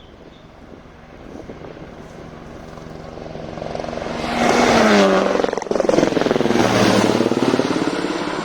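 Rally car at full throttle approaching and passing, its engine getting louder over the first four seconds and staying loud through the rest, with a brief break in the engine note about five and a half seconds in, like a gear change.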